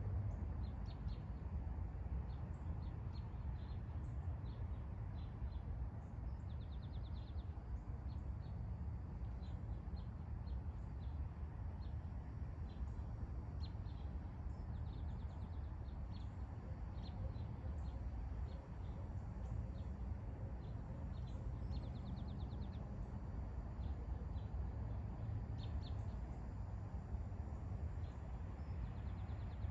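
Small birds chirping, with short calls and now and then a quick trill, scattered all through, over a steady low outdoor rumble.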